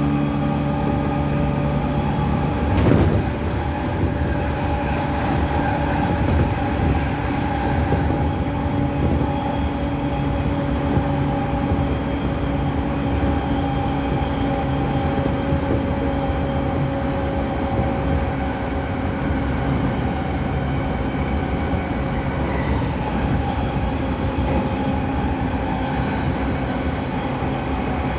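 Interior running sound of a JR East E217 series electric train heard from inside a motor car: steady rumble of wheels on rail with the hum of the Mitsubishi IGBT inverter-driven traction motors. Several low tones drop out about two and a half seconds in, followed by a brief burst of noise; a steady hum continues after.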